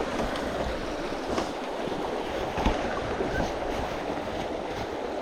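A small mountain stream rushing steadily, with a couple of faint knocks about a second and a half in and near the middle.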